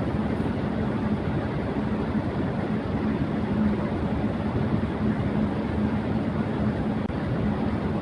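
Electric fan running on high speed: a steady rush of moving air with a constant low hum underneath.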